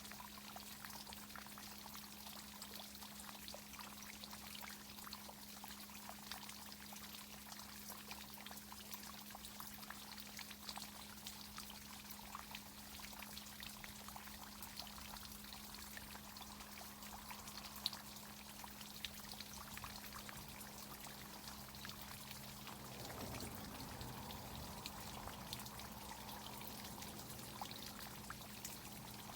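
Water from a tree-watering irrigation system pouring and trickling, with a steady low hum underneath. About three quarters of the way in, a falling tone sweeps down and the flow grows slightly louder.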